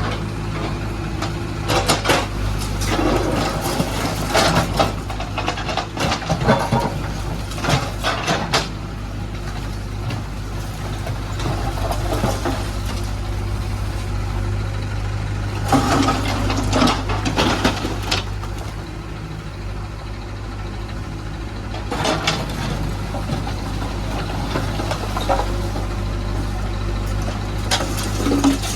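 JCB 3DX backhoe loader's diesel engine running steadily. Stretches of rattling clatter come from the bucket loading material: several seconds of it early on, then shorter bouts about halfway through, a little later, and near the end.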